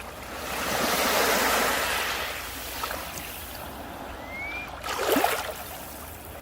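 Sea waves on a beach: one wave rushes in and washes back over the first two seconds or so, a brief rising whistle sounds about four seconds in, and a short, sharp splash about five seconds in is the loudest sound.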